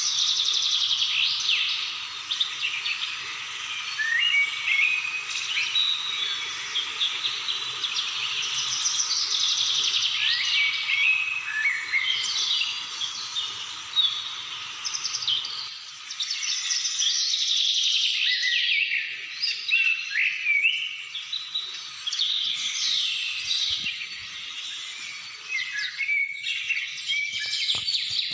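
Several songbirds singing and calling together in a dense, overlapping chorus of quick chirps and whistled sweeps. A steady low background hiss stops about halfway through. A few sharp clicks come near the end.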